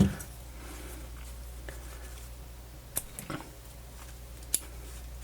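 Steady low hum with a few faint, sharp clicks of small parts and tools being handled at a workbench: two about three seconds in and another about a second later.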